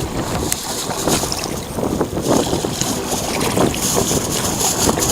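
Wind buffeting the microphone as a steady low rumble over water noise, with scattered short clicks and splashes.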